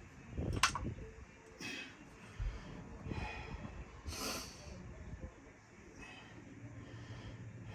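A man's short, noisy breaths, about four puffs a second or so apart, with a sharp click about half a second in.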